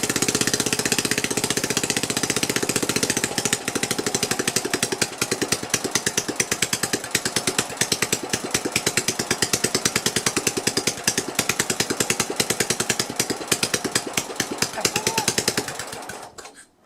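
Sears LT1036 lawn tractor's rebuilt Tecumseh engine running with no muffler fitted: a loud, rapid, even popping of exhaust pulses. It cuts off near the end.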